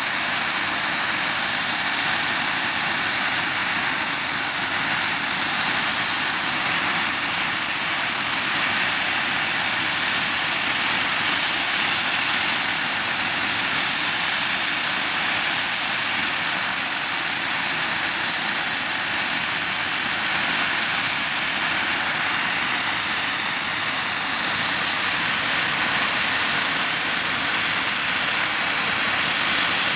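Hawker Siddeley Nimrod's Rolls-Royce Spey turbofan engines running steadily on the ground: loud, even jet noise with a steady high whine over a strong rushing hiss.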